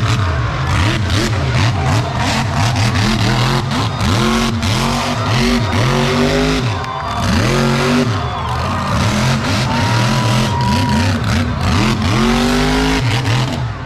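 Monster truck and mega truck engines revving hard, their pitch repeatedly climbing and dropping back, with more than one engine at a time. Short sharp cracks and bangs cut in throughout.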